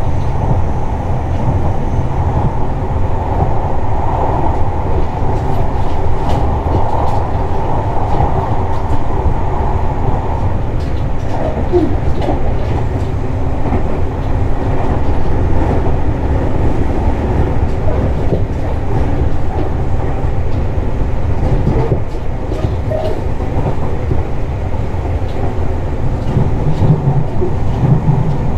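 Tobu 60000 series electric train running at speed, heard from inside the car: a steady low rumble of wheels on rail, with scattered clicks over the rail joints.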